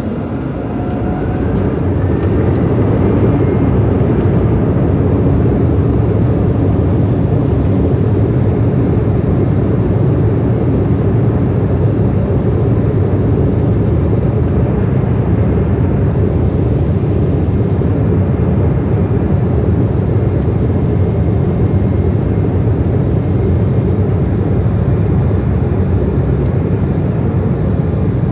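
Embraer 190's twin turbofan engines spooling up to take-off thrust: a whine rising in pitch and getting louder over the first few seconds, then a steady loud roar at take-off power, heard from inside the cabin.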